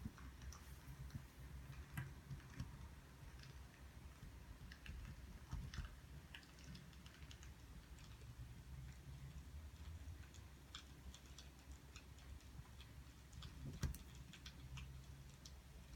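Faint, irregular crackles and pops of burning firewood over a low steady hum, with one slightly louder pop near the end.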